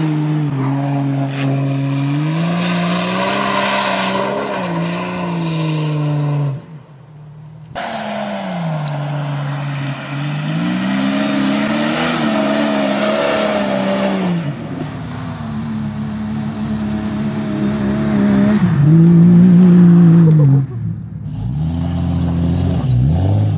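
Jeep Cherokee XJ engines revving up and down under load while climbing off-road, in several short clips cut one after another, each starting or stopping abruptly.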